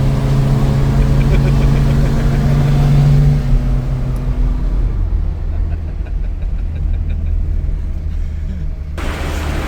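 A car engine running under load, its note climbing slightly and then dropping away after a few seconds into a lower, steady drone. Near the end the sound changes abruptly to a noisy hiss.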